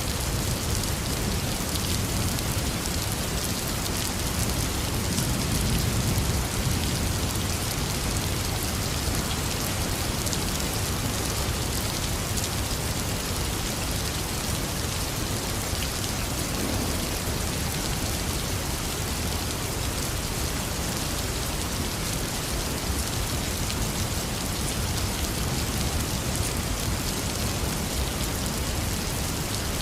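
Heavy rain falling steadily, with a low rumble of distant thunder swelling about five seconds in.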